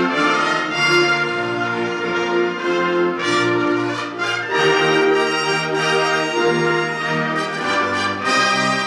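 Community concert band (wind band) playing, with the brass carrying held chords that change about every second.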